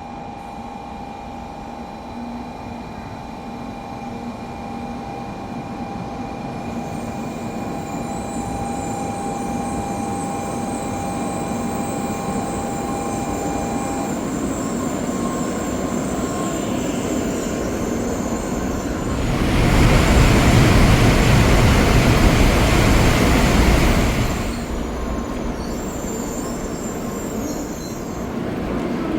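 Shinkansen train noise heard from inside a car, building gradually. About twenty seconds in, a much louder rushing noise swells up for about five seconds, then falls back.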